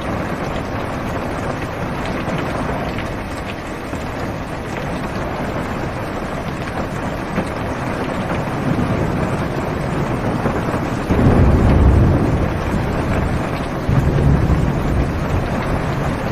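Heavy rain drumming on a car's roof and windows, heard from inside the car, as a steady wash of noise. Thunder rumbles in low twice, the first starting suddenly about two-thirds of the way in, the second a few seconds later.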